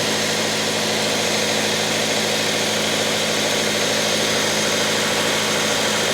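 2014 Subaru Forester XT's turbocharged 2.0-litre flat-four idling steadily, with the air conditioning switched on but the compressor not yet engaged because the system is low on refrigerant.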